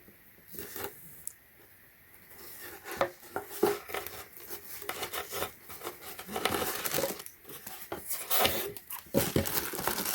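Packaging rustling and crinkling in irregular bursts, with small clicks and knocks, as pump parts are unwrapped and handled.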